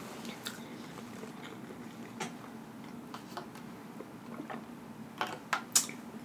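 Close-miked chewing and wet mouth sounds of a person eating, quiet with scattered small clicks, then a run of sharper, louder smacking clicks near the end.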